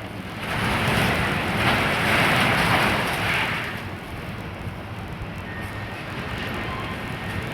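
Steady low engine rumble of demolition machinery, with a loud rushing swell starting about half a second in and fading after about three seconds.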